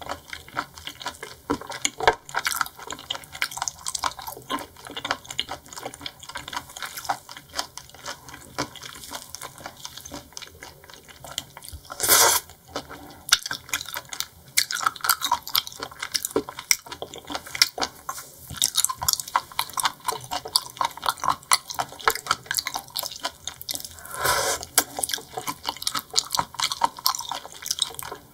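Close-miked wet chewing of seafood: a dense run of sticky, squelching mouth clicks, with two louder bursts about 12 and 24 seconds in.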